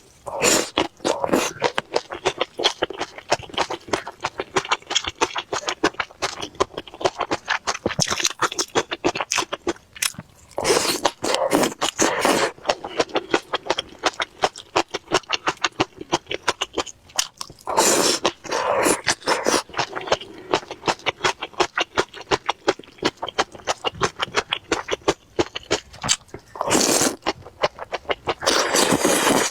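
Close-miked eating sounds from a meal of chili-sauced dumplings and liangpi cold noodles: rapid wet chewing and mouth clicks, with louder, denser stretches several times, around ten seconds in, near the middle and near the end.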